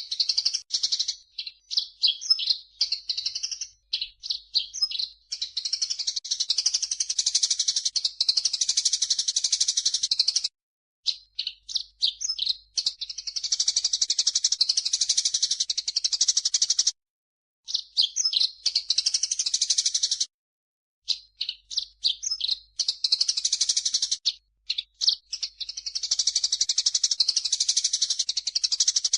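Looped birdsong training recording mixing cucak jenggot (grey-cheeked bulbul) and Eurasian tree sparrow calls. Runs of separate, quick, high chirped and whistled notes alternate with several-second stretches of dense, fast, high chattering, broken by short gaps.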